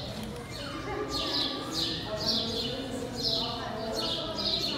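A small bird chirping over and over: short falling chirps, roughly two a second, repeated all through.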